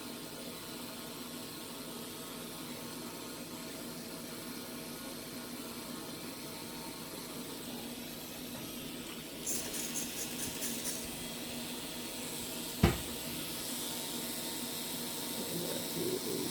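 Steady low hiss. About ten seconds in comes a quick run of short rasping strokes, a file scraping over hardened callus skin. A few seconds later there is one sharp click.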